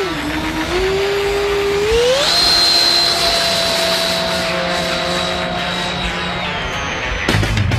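Twin 70 mm electric ducted fans of an RC F-22 Raptor jet spooling up: a whine that rises in two steps over the first two seconds, then holds steady with a high whistle, easing off slightly about six and a half seconds in.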